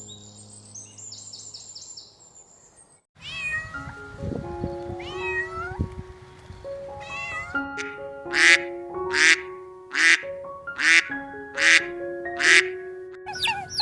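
A cat meowing over soft background music: a few drawn-out, bending meows, then a run of about six short, evenly spaced calls.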